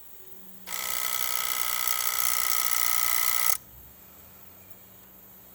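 Lexus RX400h hybrid giving off a steady electric buzz with many even overtones, starting about a second in and cutting off suddenly after about three seconds, over a faint low hum. The buzz comes on while the vehicle sits shut off, a few minutes after shutdown.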